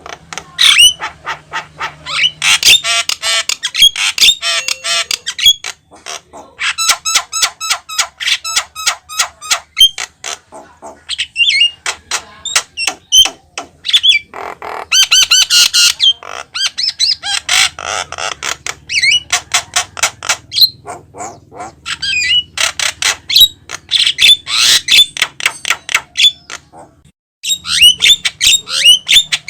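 Javan myna singing non-stop: a long run of harsh squawks and chattering phrases mixed with rapid clicking trills and short whistled notes, with a brief pause near the end.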